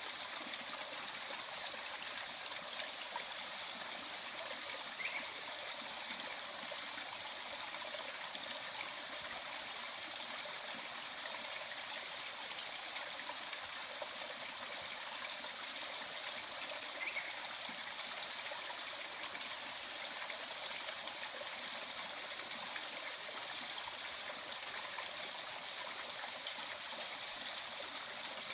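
Mountain valley stream flowing, a steady, even rush of water that does not change.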